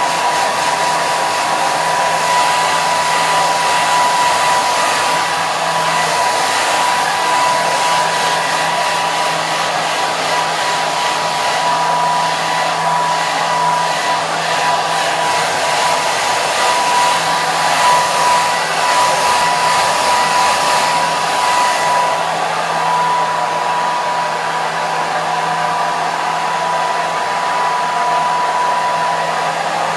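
Hair dryer running steadily: a continuous rush of blown air with a constant whine from the motor and fan, unchanging throughout.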